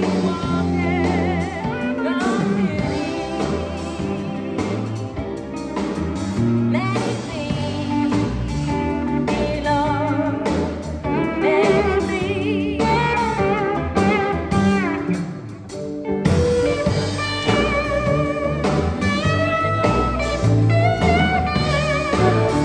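Sacred steel gospel band playing live: steel guitar with wavering, sliding notes over a bass line, with singing.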